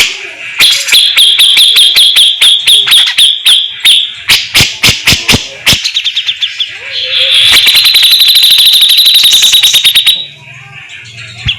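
Grey-cheeked bulbul (cucak jenggot) giving fast, harsh rattling 'besetan' calls: rapid runs of clicks and sharp separate chips. Past the middle comes one long unbroken rattle that cuts off abruptly near the end.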